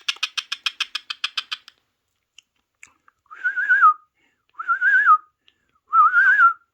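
A parrot makes a fast run of clicks, about seven a second, that stops a little under two seconds in. Then it gives three short wavering whistles, each under a second, with pauses between them.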